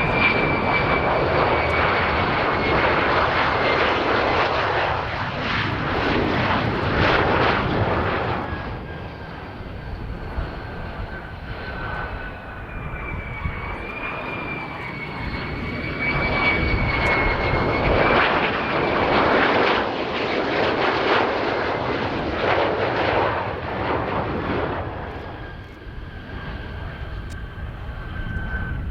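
Lockheed Martin F-35A Lightning II jet engine running loud, with a high turbine whine that slowly drops in pitch. The noise eases about eight seconds in, swells again around sixteen seconds, and fades near the end.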